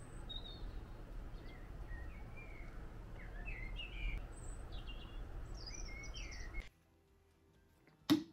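Small birds chirping and calling in quick short notes over a low, steady outdoor rumble. This cuts off suddenly, giving way to a quiet room, and a single sharp knock comes near the end.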